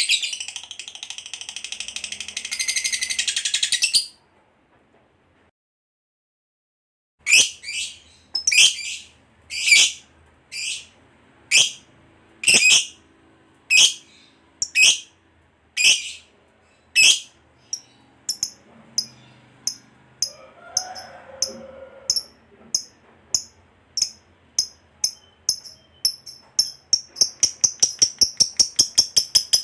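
Lovebird chattering in a fast, high-pitched stream that cuts off about four seconds in. After a silent gap, the bird gives sharp single chirps about once a second, speeding up into a rapid rattling series near the end, the build-up of the long 'ngekek' trill.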